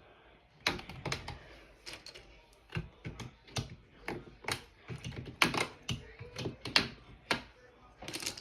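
Plastic keycaps on a computer keyboard clicking and clacking as they are pried off the switches: a string of irregular sharp clicks, some in quick pairs.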